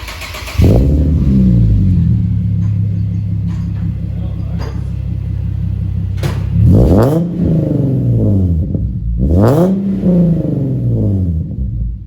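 Infiniti G37's 3.7-litre VQ37VHR V6 starting through a freshly installed ISR single-exit exhaust. It catches with a brief flare, settles into a steady idle, is blipped twice, rising and falling each time, and stops abruptly near the end.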